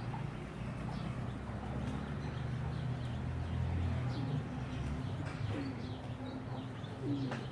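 Pigeons cooing, low and repeated, with a few chirps from small birds.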